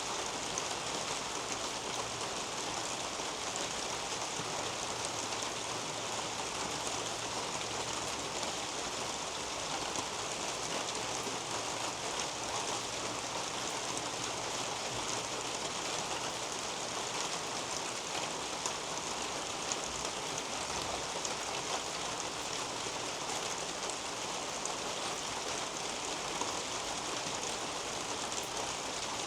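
Steady rain falling on garden foliage: a dense patter of countless small drops over an even hiss, unchanging throughout.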